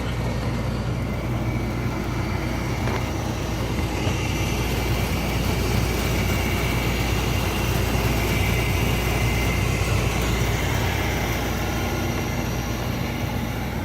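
Rooftop HVAC gas pack unit running: a steady whir of the condenser fan and compressor with a low hum.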